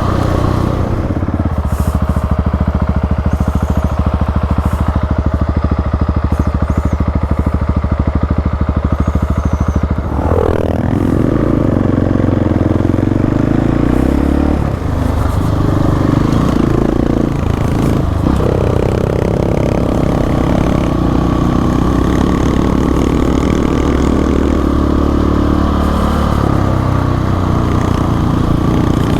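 Single-cylinder dual-sport motorcycle engine running under way, steady at first, its note dropping and climbing several times through the middle as the rider changes gear and works the throttle.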